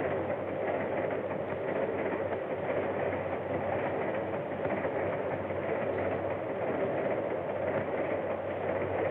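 Steady running noise of a moving passenger train, heard from inside the car.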